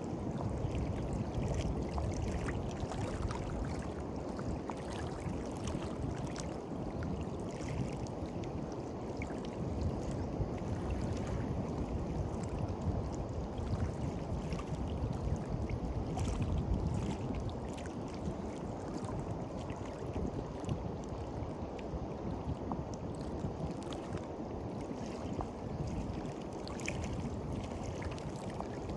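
Small waves washing onto a beach: a steady low rush of water with scattered small crackles and gentle swells in loudness.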